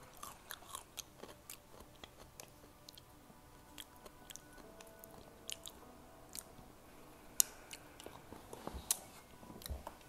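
A person chewing and biting crunchy food, heard as irregular sharp crunches and clicks, loudest about seven and a half seconds in and again near nine seconds.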